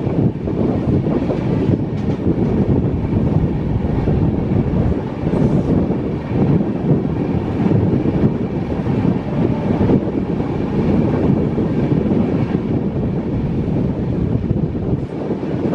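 Passenger train running at speed, heard from on board: a steady, loud rumble of the coach on the rails.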